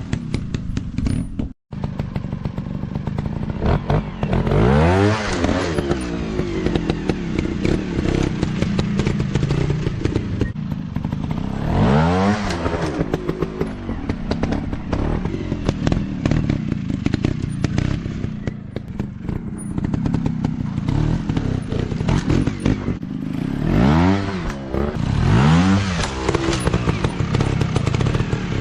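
Off-road motocross bike engines revving up and easing off over rough ground, with knocks and clatter from the bikes. The engine pitch climbs sharply about five seconds in, again near twelve seconds, and twice more near the end.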